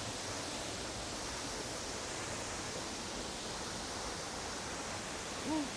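Steady rushing of a waterfall, an even wash of falling water. A short voice-like sound that rises and falls in pitch comes just before the end.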